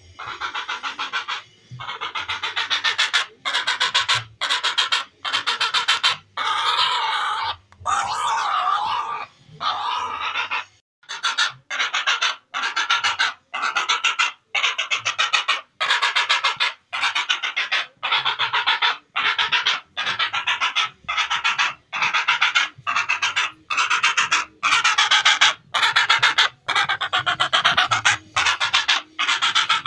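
Heron calls: rapidly pulsed calls repeated in bursts of about one to two seconds, with short breaks between.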